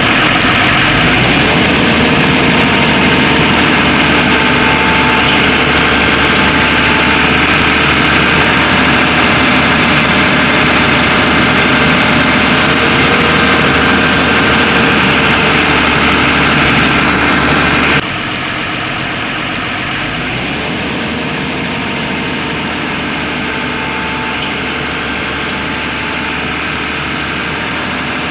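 Backhoe loader's heavy diesel engine running steadily. About 18 s in, the sound drops abruptly in level and then continues much the same.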